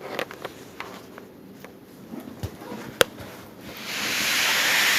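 Faint scattered clicks, one sharp click about three seconds in, then a hiss that swells over half a second and holds for about a second and a half near the end.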